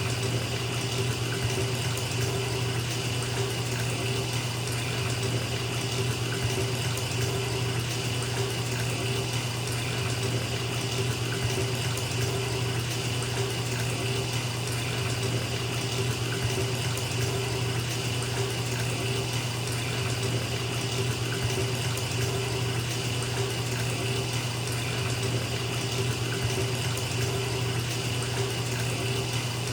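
Bathtub filling from the tap: a steady rush of running water splashing into the tub, with a low hum under it.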